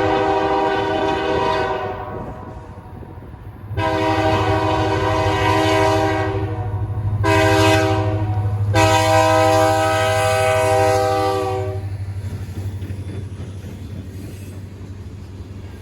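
BN 1832's diesel locomotive air horn sounding the grade-crossing signal: two long blasts, a short one and a final long one, a chord of several notes. Under it the diesel engine keeps up a steady low rumble, working hard to pull the train. The rumble carries on alone once the horn stops near the end.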